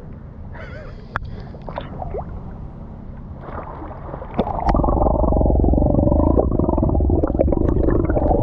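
Loud muffled rush and gurgle of water against the camera's microphone, starting about halfway in, after a quieter stretch of low noise.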